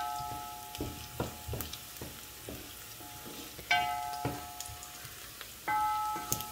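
Chopped onions and whole spices sizzling in hot oil in a pot while a wooden spoon stirs them, knocking and scraping against the pot several times. A few clear ringing notes sound over the frying, one a little past halfway and one near the end.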